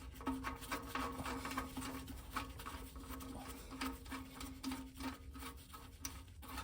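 Light, irregular clicks and rubbing of a handled oil drain plug, fitted with a new copper washer, being put back into the oil pan, over a low steady hum.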